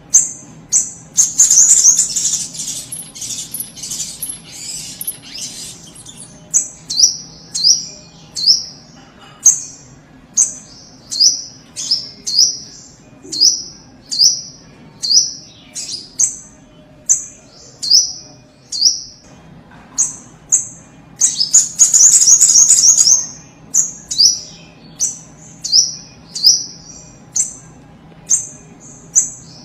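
Sogok ontong (little spiderhunter) calling repeatedly: short, high, falling notes about once or twice a second. Twice these give way to a few seconds of loud, harsh chattering.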